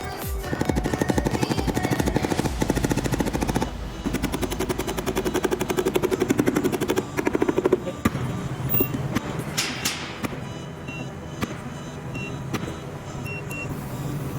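Rapid, machine-gun-like strings of sharp impacts on sheet-metal car body panels, as in panel beating. They break off briefly, then stop about eight seconds in, leaving a quieter steady hum and a short hiss near ten seconds.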